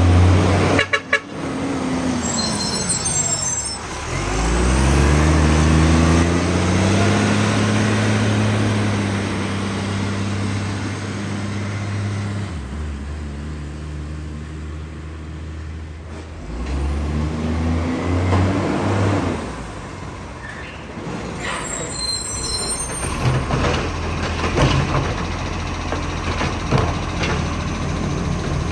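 Side-loader garbage truck's diesel engine, with a large exhaust leak, running and pulling away, its pitch rising and falling as it speeds up and slows. Two brief high-pitched brake squeals, about three seconds in and again near 22 seconds.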